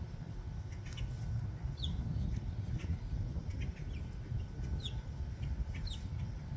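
Small birds chirping: short, high calls that drop quickly in pitch, repeated every second or so, over a steady low rumble and a faint steady hum.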